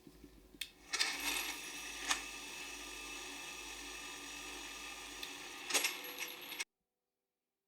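Makita electric grinder running at speed with a steady whine, starting with a click about a second in and cutting off abruptly near the end.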